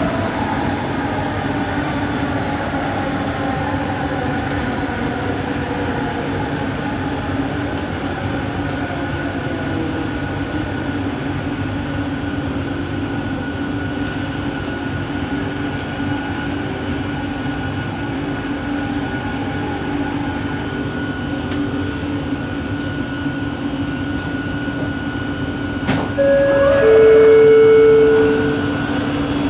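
Bombardier Innovia ART 200 metro train running, heard from inside the car: steady running noise with a held whine from its linear induction motor drive. About 26 seconds in, a sharp click is followed by a louder two-note tone, the first note higher than the second, lasting about two seconds.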